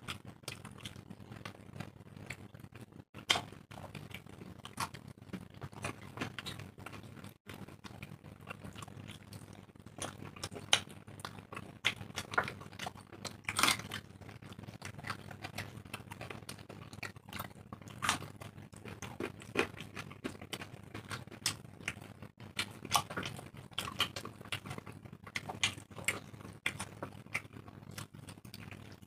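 Two people eating roti and chickpea ghugni by hand: close chewing and mouth sounds with many short, irregular smacks and clicks, over a faint steady low hum.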